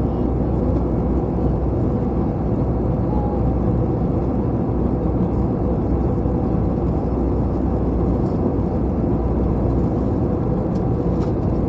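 Steady cabin noise inside an Airbus A321 in flight on descent: a constant low rumble of engines and airflow with no change in level.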